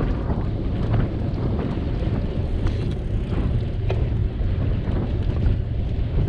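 Wind buffeting the microphone of a camera riding on a moving bicycle, a steady low rumble with scattered light clicks.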